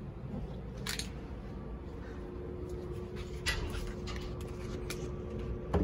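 Steady low rumble of an E257 series limited express train running, heard from inside the car. A faint steady hum joins about two seconds in and stops just before the end, and there are a few short sharp clicks.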